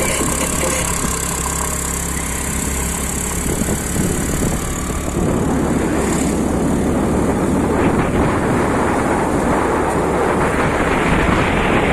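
Car climbing a hill road: steady engine and road noise, joined about five seconds in by a louder rush of wind on the microphone.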